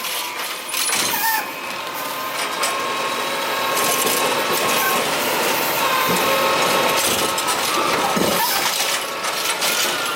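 Curbtender garbage truck working a cart: steady mechanical clatter and rattling, with a couple of knocks.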